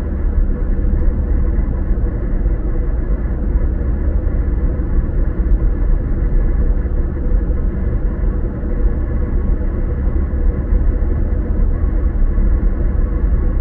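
Car driving at a steady speed: a constant low rumble of engine and tyres on the road, with no changes or distinct events.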